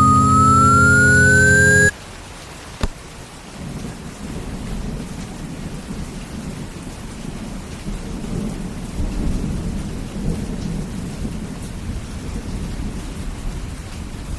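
A synth song with a rising tone cuts off abruptly about two seconds in. After a single click, rain falls steadily over a low, rolling rumble that swells a few seconds later and goes on to the end.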